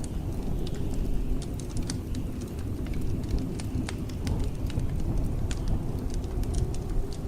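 Blizzard wind as a steady low rush, with a wood fire crackling over it in scattered sharp pops.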